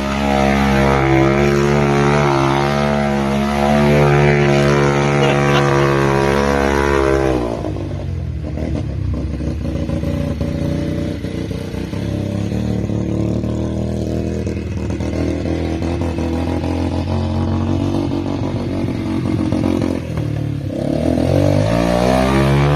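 Yamaha TT-R125 single-cylinder four-stroke engine running at high revs, backing off sharply to a low speed about seven seconds in, then revving up again near the end.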